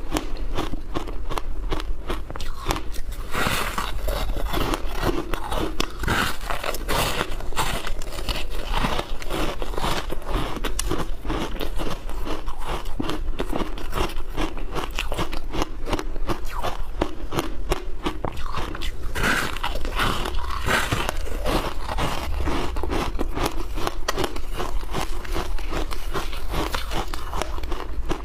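A person biting and chewing frozen matcha shaved ice, with rapid, continuous crunching.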